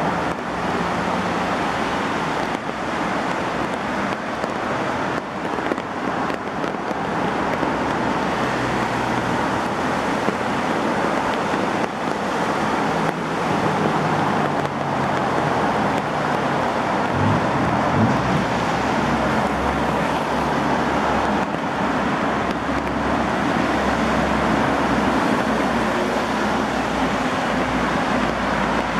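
Heavy rain falling: a dense, steady hiss of rain. From about halfway a low rumble joins in underneath.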